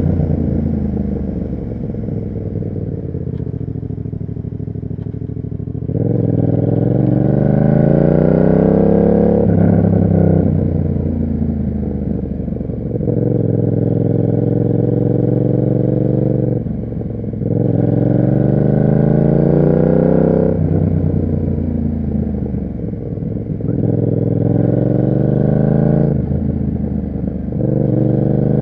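Yamaha MT-07 parallel-twin engine through an SC Project aftermarket exhaust, riding on the road. It revs up over a few seconds and then drops back, about five times, as it accelerates, shifts and rolls off the throttle.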